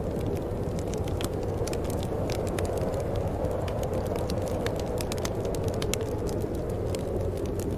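Wood fire in a fireplace crackling, with many quick irregular snaps and pops over a steady low rumble.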